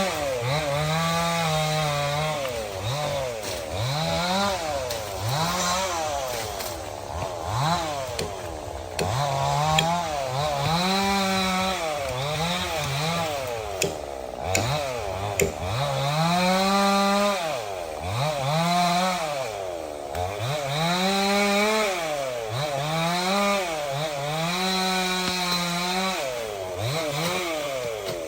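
Stihl 070 two-stroke chainsaw cutting teak, the engine revving up and dropping back again and again as it works through the wood. It eases off toward idle at the end.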